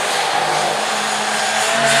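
Ford Lotus Cortina Mk1's twin-cam four-cylinder racing engine running hard on track. Its loudness dips briefly at the start, then the revs rise again in the second half.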